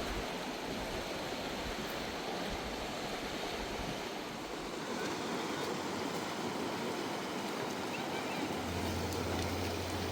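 Rushing river water: a steady, even wash of noise with no let-up.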